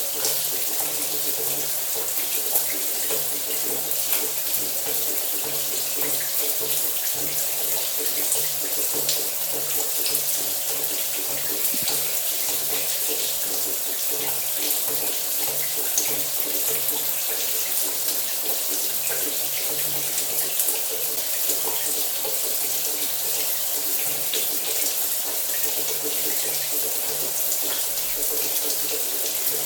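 Shower running: a steady hiss of spraying water with fine splatter ticks and a faint low hum underneath.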